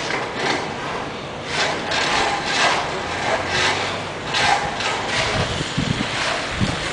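Rhythmic scraping crunches in packed snow, about one a second, with a few duller thuds near the end.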